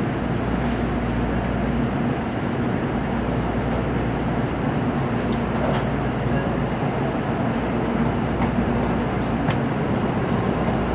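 Steady running noise of a Tokaido Shinkansen train heard from inside a passenger car: an even rumble and hiss with a low hum, and a few faint clicks.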